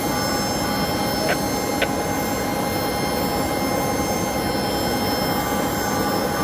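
Boeing jetliner's engines running steadily during pushback: an even rushing noise with high, steady whining tones. Two short chirps come about a second and a half in.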